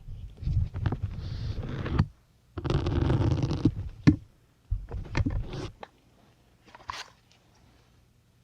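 Syringe needles being pushed into a soft sponge, several rough pushes of about a second each with short pauses between them. There are also two sharp clicks of plastic syringes knocking.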